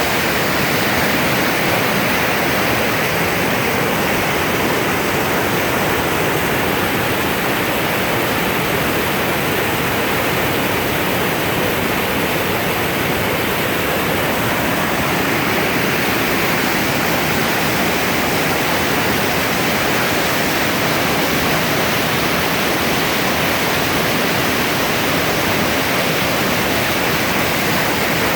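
Steady, loud rushing of river water over rapids, an even noise without breaks.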